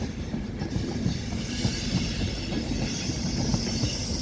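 Train moving on the rails: a steady rumble of wheels with small knocks, and a high squeal of wheels on track that grows stronger about a second in.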